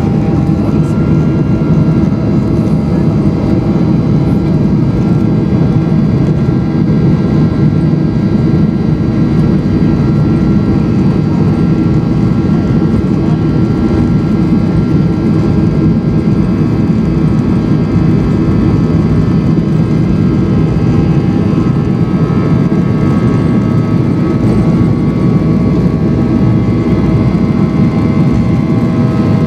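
Cabin noise of a Boeing 737-800 climbing after takeoff: a loud, steady rush of air and CFM56-7B jet engines, with several steady whining engine tones above it.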